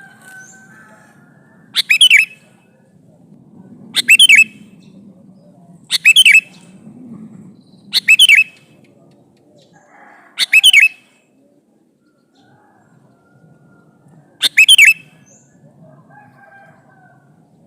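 Male sooty-headed bulbul (kutilang) calling: six short, loud call phrases, about one every two seconds at first, then a longer pause before the last.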